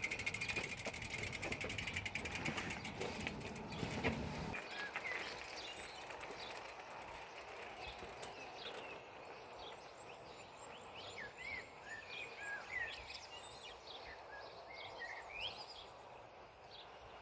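Outdoor ambience: a steady rumbling noise stops about four seconds in, leaving birds chirping and calling in many short rising and falling notes.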